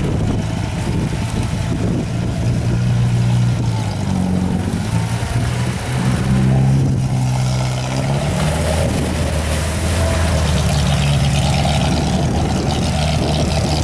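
UAZ off-road vehicle's engine running under load, its revs rising and falling repeatedly.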